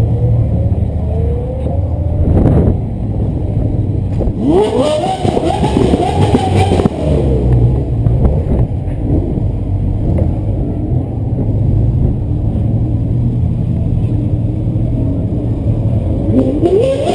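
Sports car engines revving and accelerating, their pitch climbing several times, most busily about five seconds in with several engines overlapping, over a steady low rumble.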